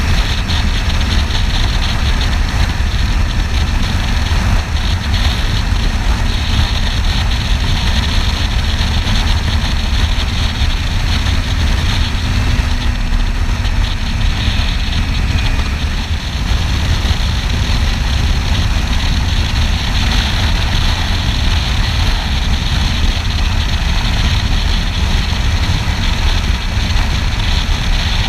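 Kawasaki Ninja 300 parallel-twin engine running steadily on the move, under a loud, even rush of wind noise on the camera microphone.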